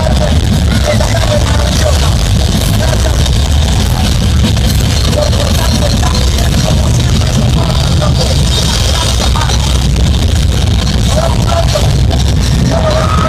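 Live heavy rock band playing loud, with drums and a dense, distorted wall of sound.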